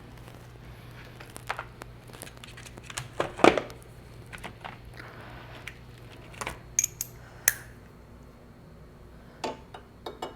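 Small metal pieces being handled, clicking and clinking in scattered knocks, with one louder clatter about three and a half seconds in. A steady low hum runs underneath and stops near the end.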